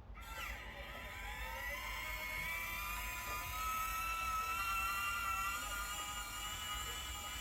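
Small electric motor and gearbox of an RC-converted Bruder toy dump truck whirring. It rises in pitch over the first two seconds as it spins up, then runs steadily.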